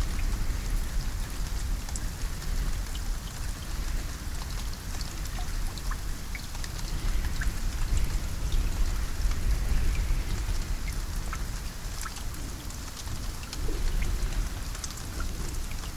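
Steady rain, with individual drops ticking sharply against a surface over an even hiss and a constant low rumble.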